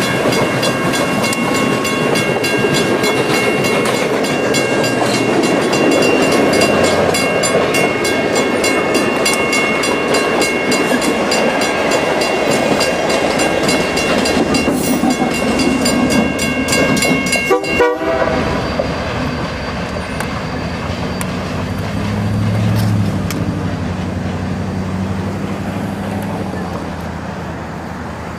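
Pere Marquette 1225 steam locomotive and its excursion train rolling past: loud running noise with regular rail clicks and steady high tones. It breaks off abruptly about two-thirds of the way through, leaving a quieter stretch with a low drone.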